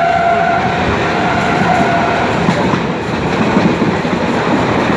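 Passenger train running at speed, its wheels clattering and rumbling on the track as heard from inside the coach. A steady high note sounds over it and fades out a little over two seconds in.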